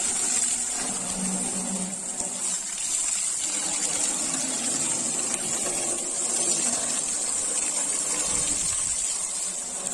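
Water spraying in a steady hissing gush as a tractor is washed down, with a low mechanical hum underneath.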